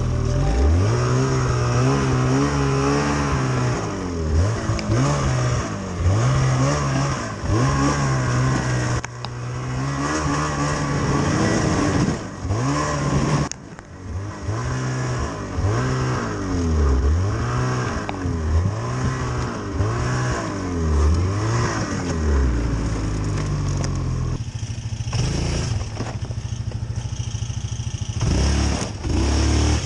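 Snowmobile engine under way, its pitch rising and falling again and again as the throttle is opened and eased.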